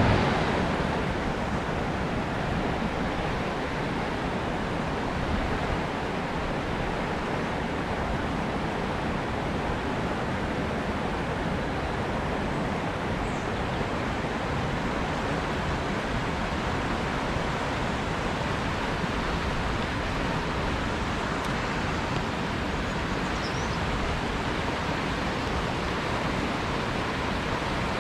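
Steady rushing of a fast-flowing trout stream, water running over stones.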